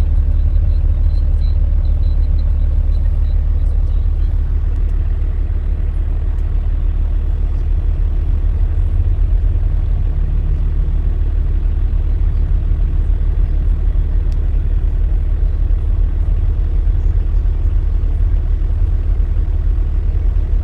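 Steady low rumble of a truck on the road, engine and road noise at an even level.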